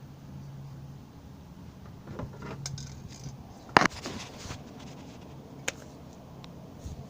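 A few light metallic clinks and sharp clicks of something being handled, the loudest about four seconds in, over a steady low hum.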